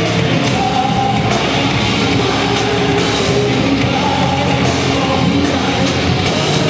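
Loud rock music with distorted guitars, pounding drums and a singing voice.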